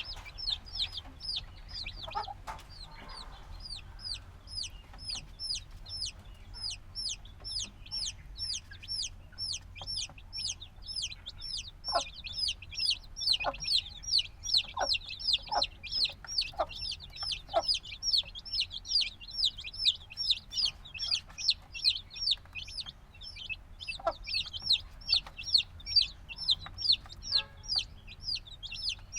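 A brood of chicks a few days old peeping non-stop, a dense run of short, high calls, each falling in pitch, several a second. A few soft taps come in the middle.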